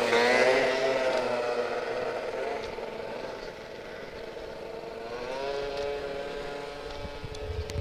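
Small nitro .21 engine of an RC monster truck running at high revs, a whining engine note that fades and drops in pitch, then rises in pitch and grows louder again about five seconds in. The owner thinks it is running a tiny bit lean.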